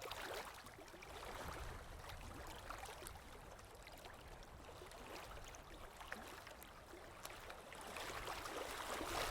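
Running water: a steady trickling, gurgling stream with small scattered drips, growing a little louder near the end.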